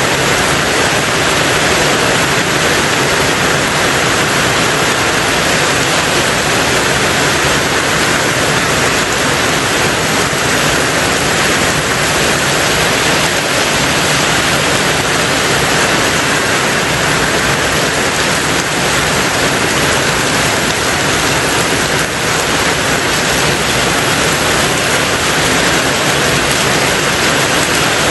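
Rain falling steadily on a tin roof: a dense, even rush of sound with no pauses or changes.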